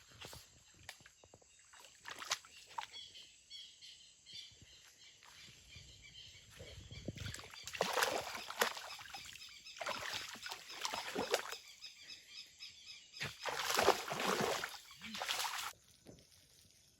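Outdoor rural ambience: a faint, evenly repeating high chirping runs through it, and three louder bursts of rough rustling noise come in the second half.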